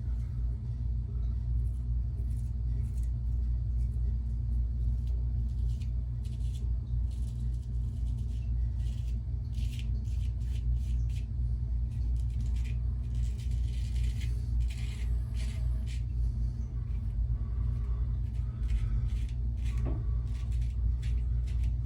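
Weck Sexto straight razor scraping through lathered stubble in many short, irregular strokes, the first pass of a shave. Under it runs a steady low rumble.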